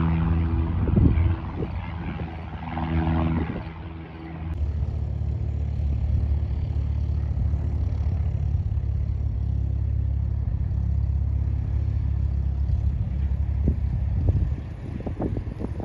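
Light piston aircraft engine and propeller running with a steady drone. After an abrupt cut about four and a half seconds in, a steady low rumble follows.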